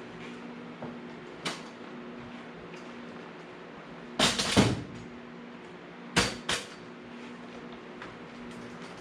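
A few sharp knocks and clunks, as of parts or tools being set down or handled, over a steady hum. There is a small knock about a second and a half in, a louder cluster around the middle, then two quick knocks soon after.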